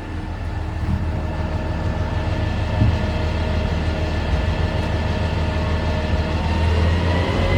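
DOLL A380 catering truck's engine and PTO-driven hydraulic pump running under load as the box lift raises the catering box: a steady drone that grows louder about a second in, with a faint whine creeping up in pitch near the end.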